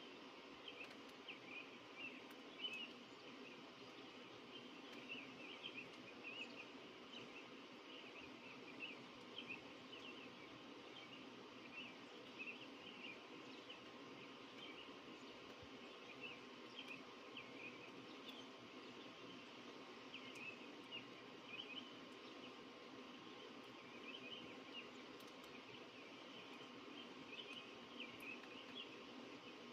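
Small birds chirping, with many short high chirps scattered throughout over a faint steady background hum.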